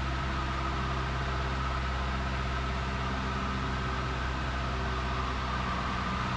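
Steady drone of a 1977 Cessna 172N's four-cylinder engine and propeller heard from the cabin, holding an even, unchanging note on final approach.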